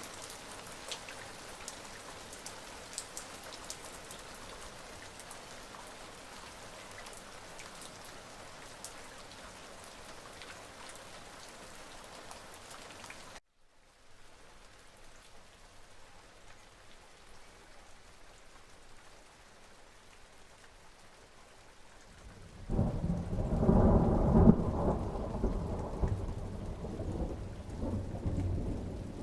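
Steady rain falling, with individual drops ticking, then a sudden brief cut to quieter rain. About 22 seconds in, a loud, low rolling rumble of thunder starts abruptly and keeps rumbling over the rain.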